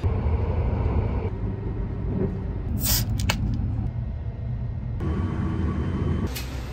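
Low, steady rumble of the Sunrise Seto/Izumo sleeper train, with the background changing abruptly a few times, and a few sharp clicks about three seconds in.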